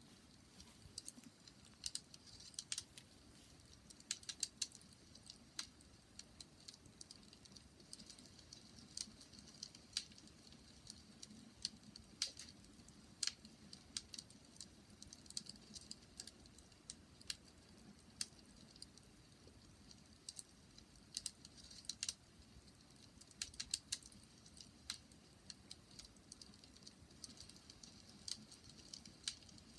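Wood fire crackling: irregular sharp pops and snaps, several a second, over a faint low rumble of the burning.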